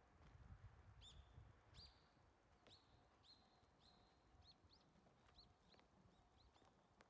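Faint small-bird calls: about a dozen short chirps from about a second in, each sweeping up and then holding a brief whistle. A low rumble sits under the first couple of seconds.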